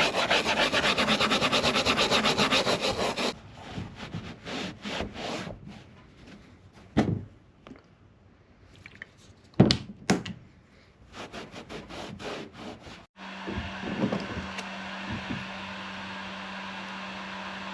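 Wire brush scrubbing fast on a plastic kayak hull for about three seconds, then a few slower, quieter strokes and a couple of sharp knocks. About thirteen seconds in, a steady electric hum starts and keeps going.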